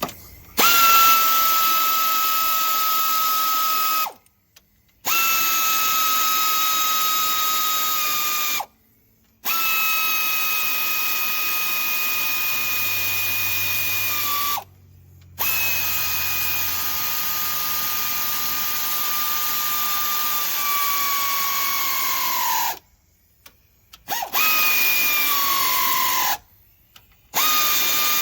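Low-speed air ratchet running cylinder-head bolts down, in about six runs of a few seconds each with short pauses between them. Its steady whine sags in pitch at the end of most runs as each bolt seats. It is only running the bolts in, not tightening them to torque.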